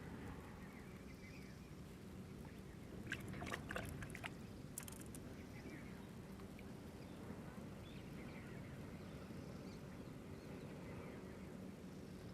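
Quiet outdoor background with a steady low rumble and faint bird chirps, broken about three to four seconds in by a short cluster of sharp clicks or taps, with one more a second later.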